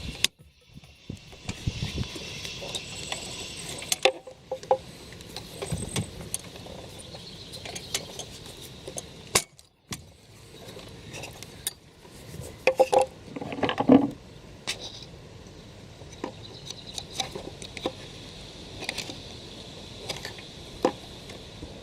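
Metal hand tools and parts clicking and clinking in short irregular knocks during work on the car, with a louder flurry of knocks about two-thirds of the way through.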